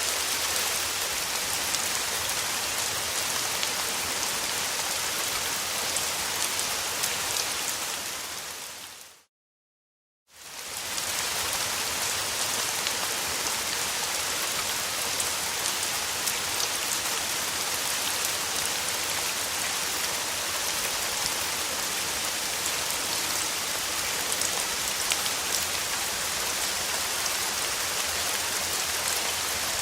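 Steady rain falling, with many fine drop ticks through the hiss. About nine seconds in it fades out to silence for about a second, then fades back in.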